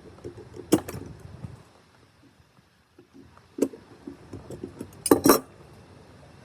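Metal tools and parts clinking and knocking as they are handled, with a few sharper clinks, the loudest a quick double strike near the end.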